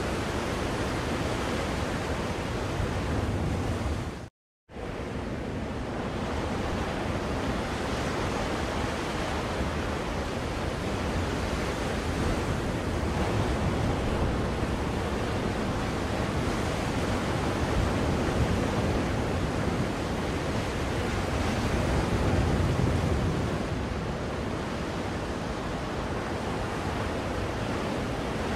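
Recorded ocean surf played as a white-noise track: a continuous wash of waves that slowly swells and eases. It cuts out completely for a fraction of a second about four seconds in.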